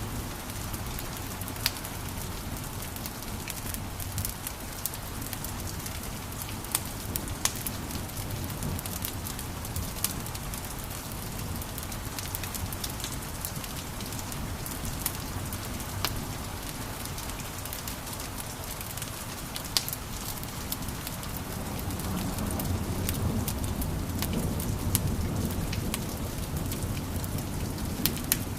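Wood fire crackling in a fireplace: a steady hiss and low rumble of flames with frequent sharp pops and snaps. The low rumble swells for a few seconds about three-quarters of the way through.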